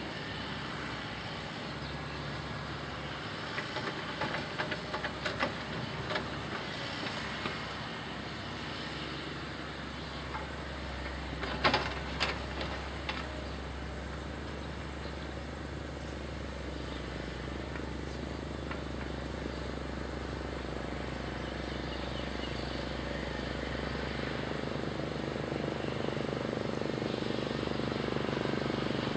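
Heavy diesel machinery running steadily, with scattered knocks about four to seven seconds in and a loud clatter about twelve seconds in, the engine growing gradually louder towards the end.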